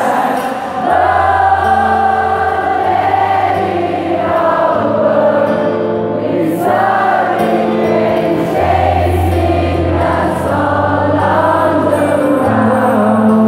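Live acoustic rock performance: a sung melody over held low accompaniment chords that change every couple of seconds.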